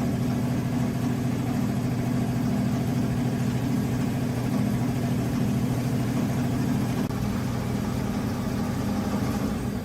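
Toyota HiAce van's engine idling steadily after being restarted from long abandonment.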